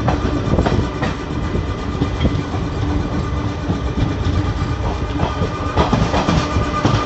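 Indian Railways passenger coach running at speed, heard from aboard: a steady rumble with irregular clicks of the wheels over the rail joints and a faint steady hum.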